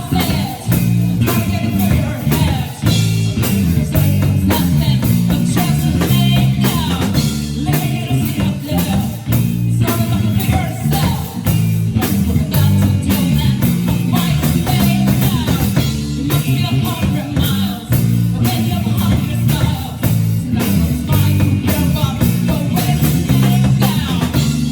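Live rock band playing a song: drum kit keeping a steady beat under bass and guitars, with a singer.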